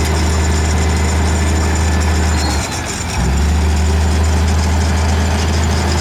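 Bulldozer's diesel engine running with a steady low hum, briefly dropping away about halfway through and then picking straight back up.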